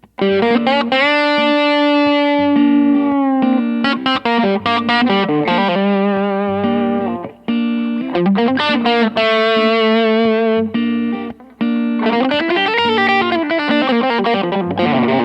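PRS Modern Eagle V electric guitar played solo through an amplifier with a light overdrive. It plays melodic lead licks: held notes with vibrato, string bends, and a quick run of notes that climbs and then falls near the end, with a couple of brief pauses between phrases.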